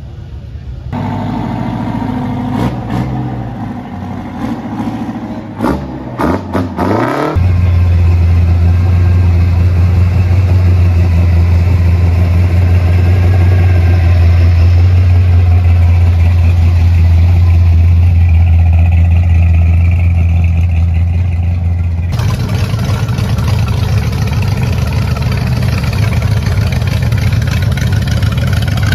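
V8 street-machine engines running in a series of short clips. About six seconds in an engine revs up and down, then a loud steady low engine rumble holds, and near the end a supercharged V8 in a Ford Model A hot rod runs as the car rolls past.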